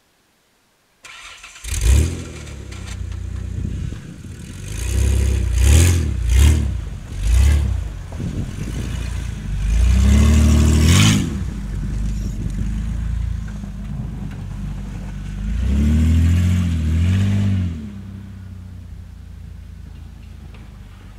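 1995 Ford Explorer's V6 engine starting about two seconds in, then revved several times in short blips and one longer rev, settling to a steady idle near the end.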